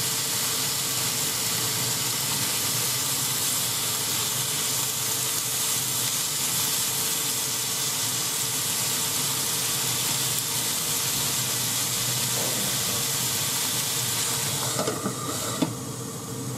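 Sliced onions sizzling steadily in a hot frying pan as they are stirred with chopsticks. Near the end a metal lid goes onto the pan with a knock and the sizzle drops off.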